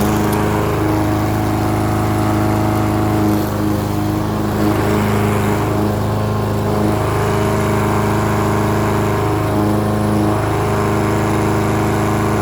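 Craftsman lawnmower engine running at a steady speed without stalling: its clogged carburetor is cleared by the carburetor cleaner.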